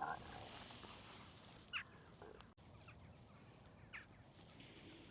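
Faint bird calls: a handful of short single calls, about four, a second or two apart.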